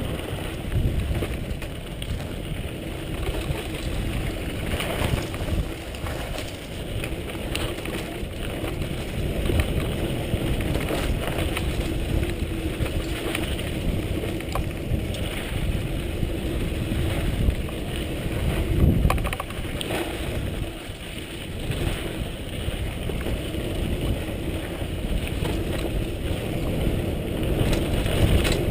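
Bicycle rattling and bumping along a rough trail, with wind rushing over the microphone and occasional heavier thumps.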